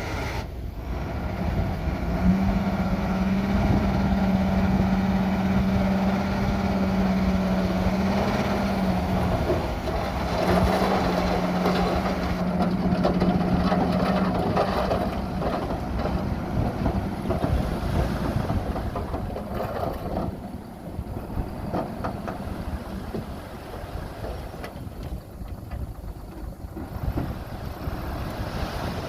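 Diesel engines of earthmoving machinery, a bulldozer and dump trucks, running under load with a steady low hum. The sound eases and gets quieter in the last third.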